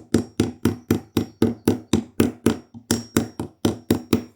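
Rapid, light hammer taps, about five a second, driving a metal ferrule onto the turned end of a wooden tool handle, each tap with a short ring; the taps are kept gentle so as not to crush the ferrule. They stop just before the end.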